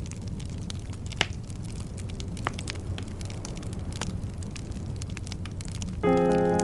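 Wood fire burning in a fireplace: a steady low rumble with scattered sharp crackles and pops, the loudest about a second in. Keyboard music starts near the end.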